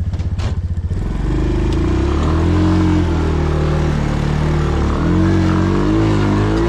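Dirt bike engine pulsing at low revs, then revved up about a second in and held high with a wavering pitch, straining under load while trying to drag a stuck quad.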